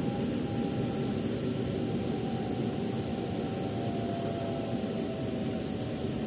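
Inside a moving metro train car: the steady rumble and hiss of the train running, with a faint whine that slowly falls in pitch.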